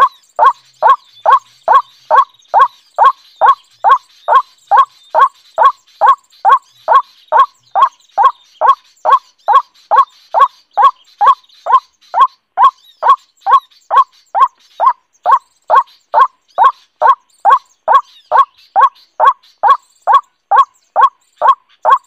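A bird's call, one short falling note, repeated at an even pace of about two a second without a break.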